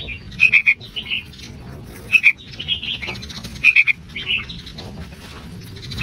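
Sooty-headed bulbul nestling calling: short high notes in clusters of two or three, repeated about once a second, stopping for the last second and a half.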